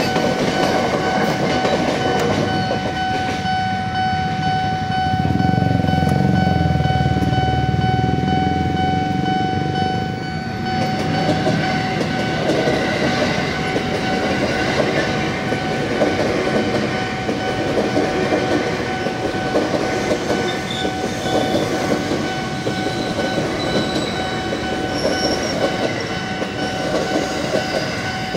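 A train passing over a railroad level crossing, its wheels clattering over the rails, with a steady high warning tone sounding throughout. The train's low rumble is heaviest about five to ten seconds in.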